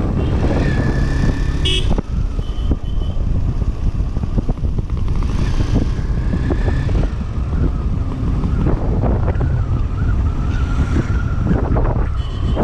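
Motorcycle riding on a highway, with wind buffeting the microphone over engine and road rumble. A few brief high tones, like horn toots from traffic, come through about half a second in, around three seconds in and near the end.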